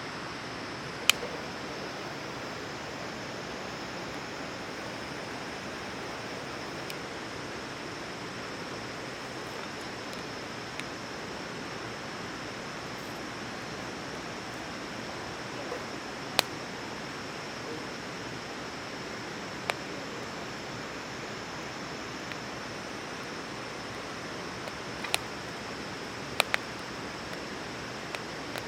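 Wood fire burning in a small portable fire grill: a steady hiss with a few sharp, scattered crackles as the wood pops.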